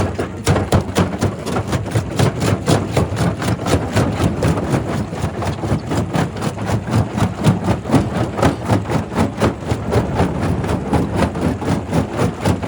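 Primary rock crusher running under load: a steady heavy mechanical rumble with a rapid, even clatter of knocks, about four to five a second, as rock is crushed.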